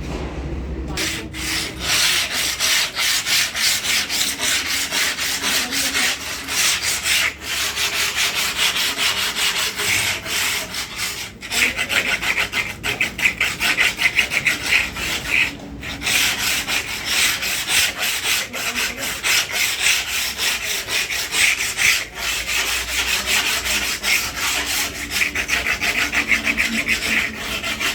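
Truck window glass being worked by hand: rapid back-and-forth rasping strokes, many a second, with a few short breaks.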